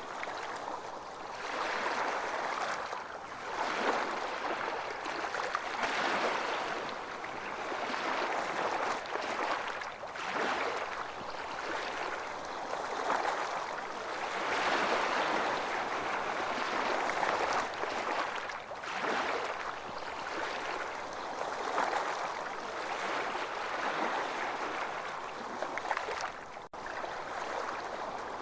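Ocean waves washing onto a beach, a continuous rush of surf that swells and ebbs every few seconds. The sound cuts out for an instant near the end.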